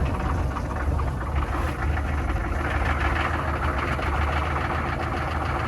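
6.5L turbo diesel V8 running at idle with a steady low rumble, seconds after a cold start at -35C on a block-heated engine.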